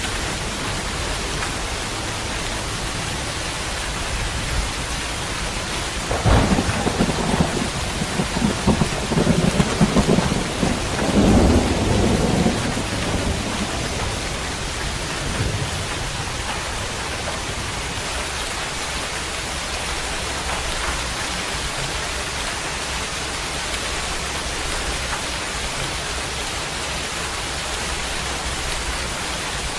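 Steady rain falling, with a rumble of thunder rolling in about six seconds in and dying away over the next seven seconds or so.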